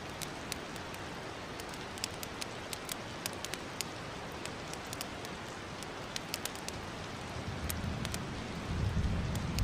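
Fireplace fire crackling: a steady hiss with irregular sharp pops and snaps. A low rumble builds up near the end.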